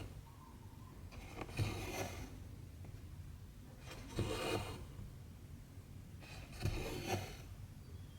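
Cotton embroidery thread pulled through cross-stitch fabric: a short rasping draw about every two and a half seconds, three times.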